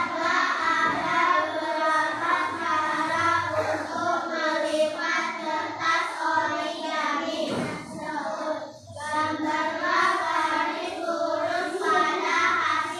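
A class of children's voices in unison, steady and sing-song, with brief pauses about four and eight seconds in.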